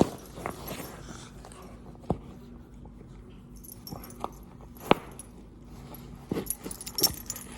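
A yellow Labrador chewing and tugging at a thick canvas plush toy, with scattered sharp clicks and knocks, the loudest about five seconds in.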